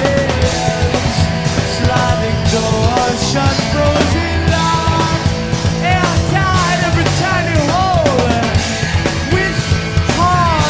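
A rock band playing a song live at full volume, with sliding, bending notes in the second half.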